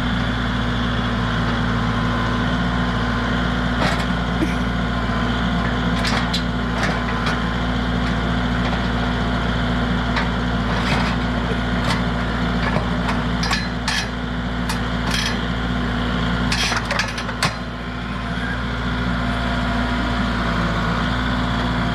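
A steady machine hum runs throughout, with scattered sharp metal clinks and knocks from tools working a riding mower's hood loose.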